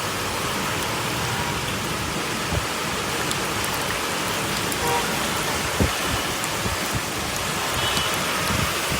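Rain falling steadily, a dense even hiss of water on surfaces, with a couple of brief low thumps partway through.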